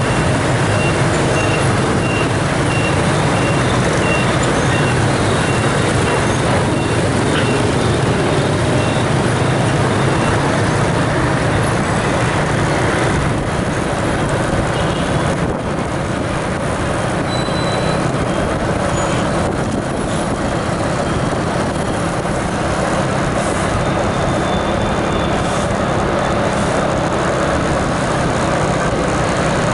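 Steady rumble of a running vehicle, with a faint high beep repeating about twice a second for the first several seconds.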